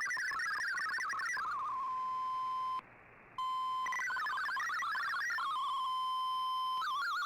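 MFSK digital-mode data tones from a shortwave broadcast heard through a communications receiver: a fast stepping warble of beeping tones, twice settling into a steady single tone, with a brief dropout to near silence about three seconds in. Near the end it changes to a faster, regular wavering tone pattern.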